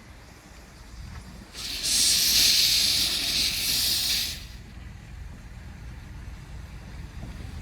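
Steam locomotive releasing steam: a loud hiss that starts about one and a half seconds in and cuts off about three seconds later, over a steady low rumble.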